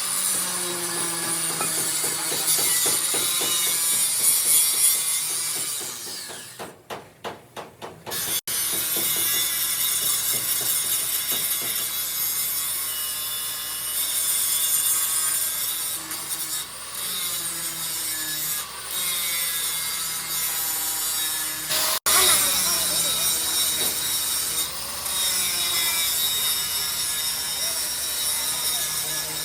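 A metalworking tool cutting steel with a continuous grating, scraping sound. The sound changes abruptly twice, and it pulses briefly just before the first change.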